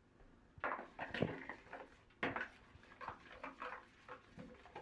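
Kitchen clatter: a mixing bowl and utensils knocking and clinking as batter ingredients are handled, with sharper knocks about a second in and again just past two seconds.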